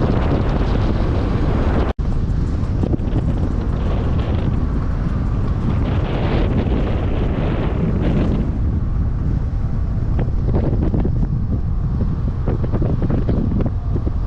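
Heavy wind buffeting the microphone from a moving vehicle, over the rumble of the road. The sound cuts out for an instant about two seconds in.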